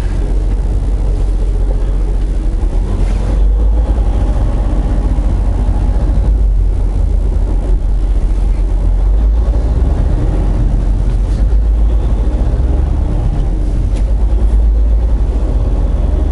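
Semi truck's diesel engine running while driving, heard from inside the cab: a loud, steady low rumble whose pitch drifts up and down slightly.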